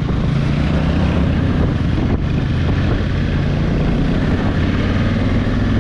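Honda Africa Twin 1100's parallel-twin engine running under way, heard from on the bike, its steady note shifting a little in pitch with a brief dip about two seconds in.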